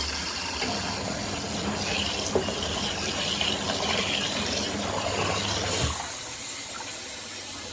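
Water churning in a twin-tub portable washing machine over the low hum of its motor. The hum cuts off with a click about six seconds in.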